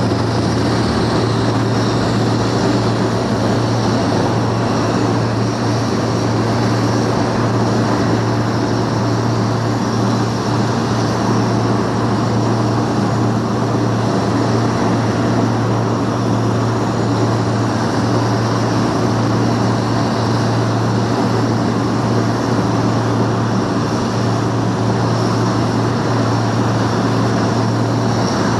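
Propeller aircraft's engines running with a loud, steady low drone that holds one pitch throughout.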